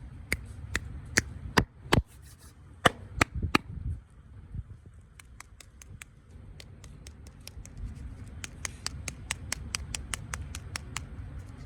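A series of sharp clicks and taps. The louder ones are spaced irregularly over the first few seconds; from about eight seconds in comes a quicker, lighter run of about three or four clicks a second, over a low rumble.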